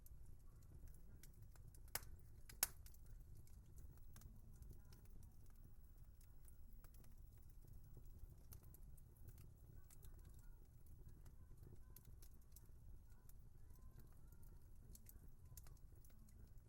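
Wood fire crackling softly, with scattered small clicks over a low steady rumble and two sharper pops about two seconds in.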